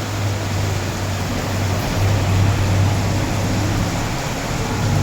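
Heavy monsoon rain pouring down as a steady, even rush of noise, with a constant low hum beneath it.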